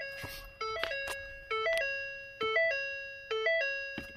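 A Ford F-150's electronic cabin warning chime, sounding over and over: a short stepped run of notes ending on a held tone, about once every second.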